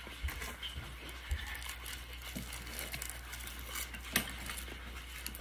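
Faint chewing and mouth sounds of eating by hand, with scattered small clicks and one sharper click about four seconds in.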